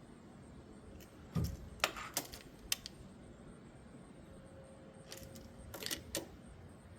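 Light clicks and knocks of hand tools being handled while measuring and marking plywood. They come in two short clusters, one with a dull thud a little over a second in, the other near the end.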